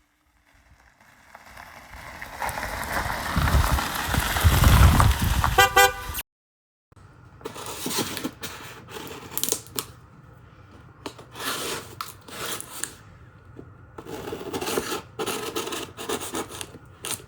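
A vehicle rumble swells over several seconds and ends in a quick run of horn toots, then cuts off abruptly. After the cut come scattered clicks, scrapes and rustles, typical of a package being handled and opened.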